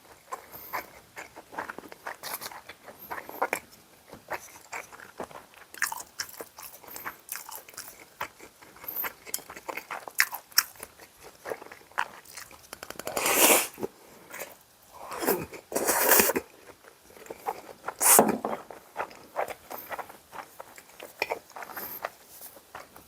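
Close-miked eating sounds: a person biting and chewing food with many small wet clicks. A few louder, longer noisy bursts come in the second half.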